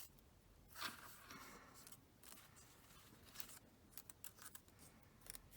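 Faint rustling of paper and card being handled while paper is glued onto a card mask, with a few small clicks and taps in the second half.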